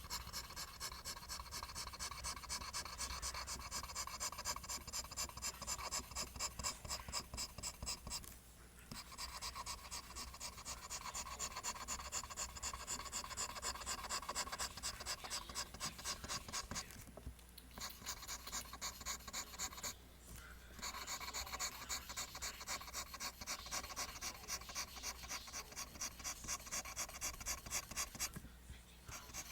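Pencil drawing lines on paper: rapid, rhythmic scratching strokes, several a second, with a few short pauses.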